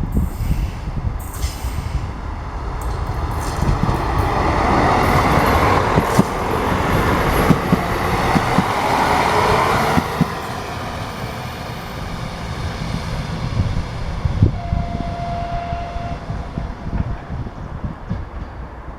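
A train rolling through on the rails, with wheel knocks and a rumble that swells to its loudest a few seconds in and then eases off. A brief steady tone sounds about fifteen seconds in.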